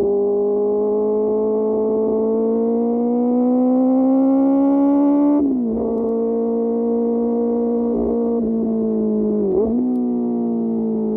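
QJ Motor SRK600's inline-four engine through an SC-Project aftermarket exhaust, revs climbing steadily under acceleration for about five seconds, then dropping sharply at a gear change. It holds an even pitch, dips and picks up again briefly near the end, then settles lower.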